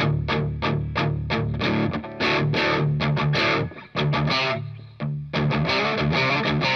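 Distorted electric guitar through a Blackstar HT Studio 20 amp's distortion channel, picked up by microphones in front of and behind the cab: quick, evenly repeated chugging notes, a short break about four seconds in, then ringing chords and a busier riff.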